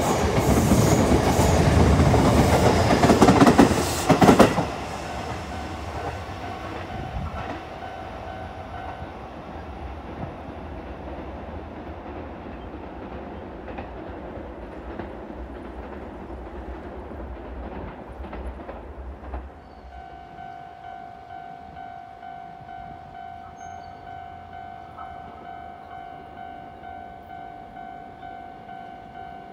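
Sotetsu 11000 series electric commuter train pulling out of the station, its last cars passing close with loud wheel clatter and knocks over the first four seconds or so, then the sound fading to a low rumble. About two-thirds of the way in, a steady electronic ringing tone starts and runs on.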